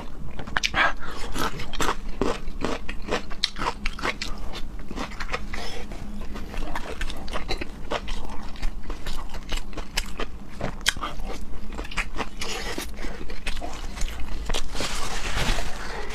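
A person chewing and biting food close to the microphone: a continuous run of many quick, wet mouth clicks.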